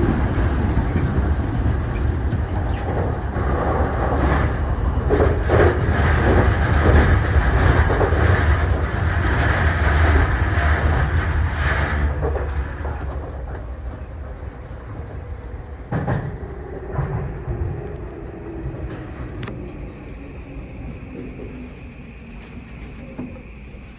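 Tokyu 3020 series electric train running at speed, with dense wheel-on-rail noise and knocks from the track. After about twelve seconds it quietens as the train slows, and a motor whine falls in pitch. There are a couple of sharp clunks partway through the slowdown.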